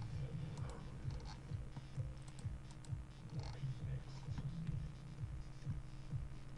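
Faint clicking of a computer keyboard and mouse over a steady low hum, with soft low thumps about three times a second.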